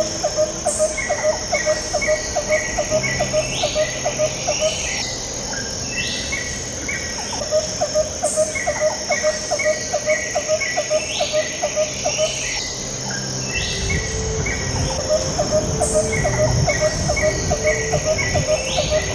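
A looped bird and insect soundscape over soft background music: a run of chirps, about three or four a second, lasting some four seconds and coming back in the same pattern every seven or eight seconds, with higher short chirps and steady held tones underneath.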